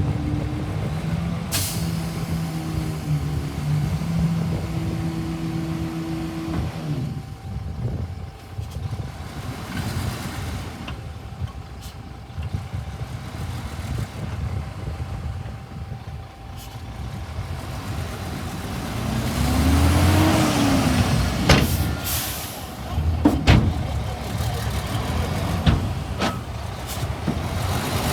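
Hyundai bulldozer's diesel engine running, revving up and back down about two-thirds of the way through, with a few sharp bangs or hisses along the way.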